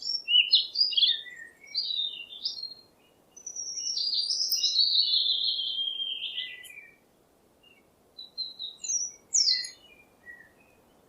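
Small birds chirping and twittering: quick high chirps, then a longer warbling phrase that slides down in pitch over about three seconds around the middle, then scattered chirps near the end.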